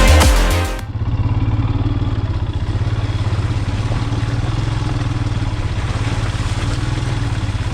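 Electronic music cuts off just under a second in. A motorcycle engine then runs steadily at an even, low beat.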